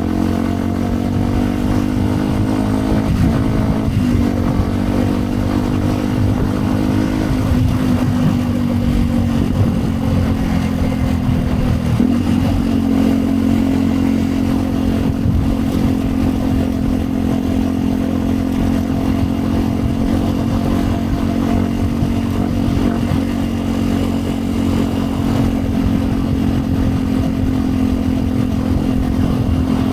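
Yamaha WR 125 X's single-cylinder four-stroke engine running through a Yoshimura exhaust while riding at a fairly steady speed. The pitch sags a little over the first dozen seconds, shifts about twelve seconds in, and then holds steady.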